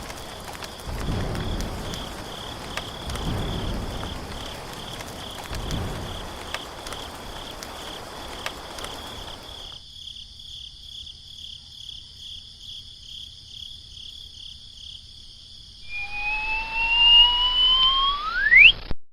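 Insects chirping in a steady, high, pulsing trill over outdoor background noise. About 16 seconds in, a louder whistle-like tone rises in pitch and sweeps sharply upward before cutting off.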